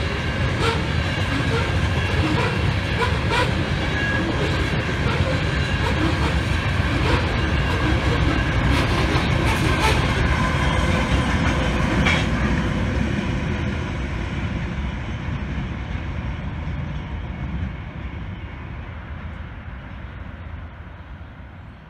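Loaded grain train of covered hopper cars rolling past at track speed, steel wheels clicking over the rail joints with steady high ringing tones from the wheels on the rail. A diesel locomotive goes by about ten seconds in, and then the rumble fades steadily as the train moves away.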